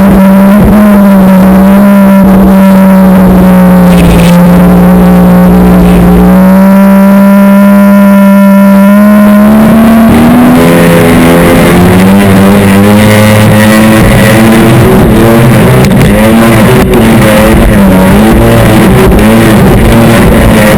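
Jet ski engine running loud at high revs, its pitch steady for about ten seconds, then wavering quickly up and down for the rest.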